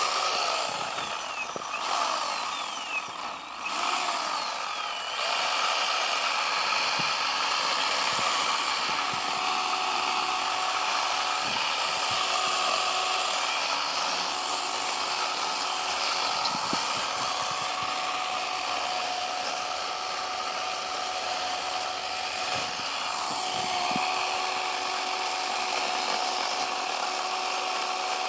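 Chainsaw running at high revs as it cuts into a block of packed snow. The revs dip and rise a few times in the first few seconds, then hold nearly steady.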